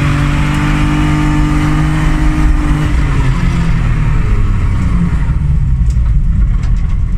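Mercedes W202 2.8 drift car engine heard from inside the cabin, held at steady revs, then dropping to lower revs about three seconds in and running on roughly.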